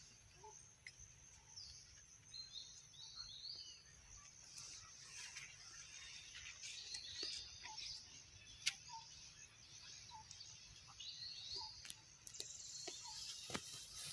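Faint outdoor ambience: small birds calling in the background in little groups of short, falling chirps, over a steady high hiss, with a few sharp clicks.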